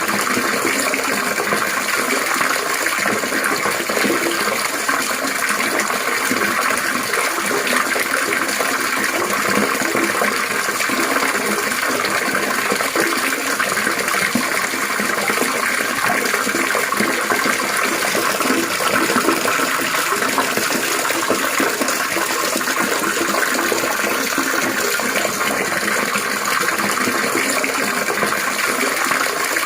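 Water trickling and splashing steadily and continuously, a dense babbling patter with no change in rhythm or level.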